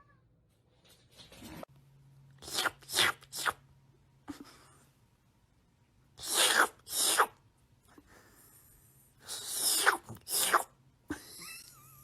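A cat sneezing again and again: about eight short, sharp sneezes, some in quick runs of two or three, with pauses between the runs.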